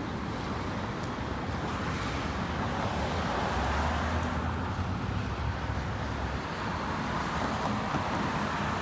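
Wind buffeting the microphone during a bicycle ride on a road, with road traffic noise around; a low rumble swells for a few seconds in the middle.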